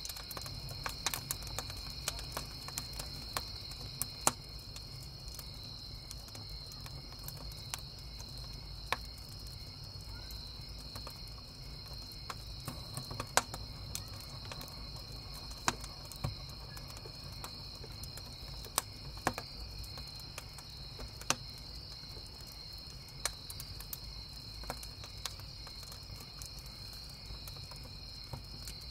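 Wood campfire crackling, with irregular sharp pops, several of them loud, over a steady chorus of crickets chirping.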